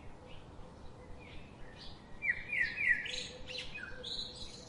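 Wild birds calling: a quick run of chirping notes about two seconds in, then a few higher chirps near the end.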